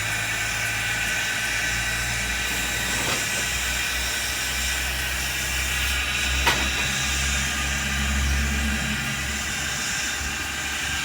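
A standing steam locomotive hissing steam steadily over a low hum, with one sharp click about six and a half seconds in.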